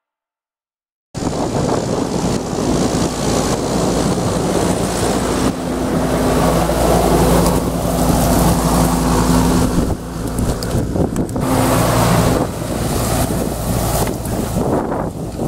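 John Deere 6420 tractor's diesel engine running steadily, heard with heavy wind noise on the microphone; it cuts in about a second in after a brief silence.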